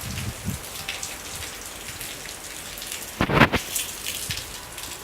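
Rain falling, an even hiss with scattered drops ticking close by. About three seconds in, a brief loud knock stands out above the rain.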